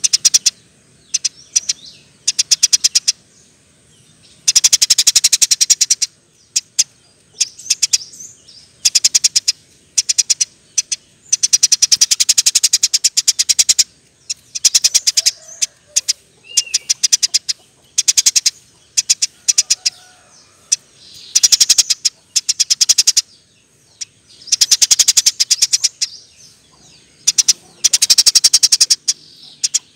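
Eurasian tree sparrow chattering in fast runs of sharp, rapid-fire chirps, each run lasting a second or two and repeating every few seconds.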